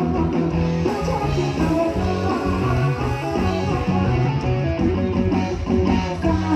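Live band music with guitar over a repeating bass line, played loud and steady.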